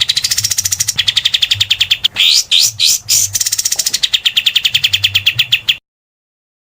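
Recorded songbird burst call: a rapid rattle of sharp, high notes at about ten a second, broken about two seconds in by a few upward-sweeping whistles, then resuming and cutting off abruptly.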